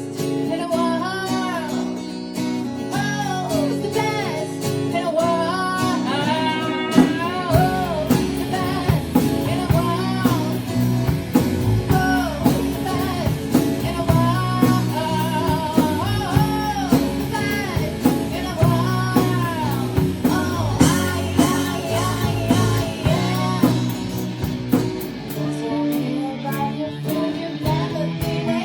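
Blues-rock band playing a song: a singer's voice with vibrato over guitar, with the bass and drums filling out about seven seconds in.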